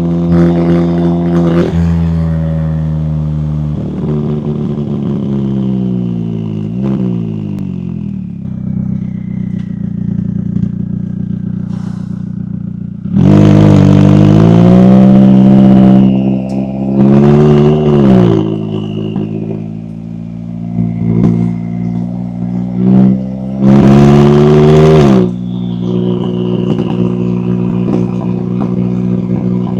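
McLaren 570S twin-turbo V8 exhaust while driving. The engine runs steadily with its pitch sliding down as it slows, then surges under hard acceleration three times from about halfway through, loudest on the first. After each surge the pitch drops off sharply.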